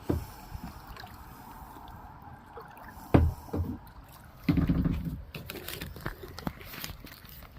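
Kayak paddling: paddle strokes sloshing and dripping water, with a sharp loud knock about three seconds in and a smaller one just after.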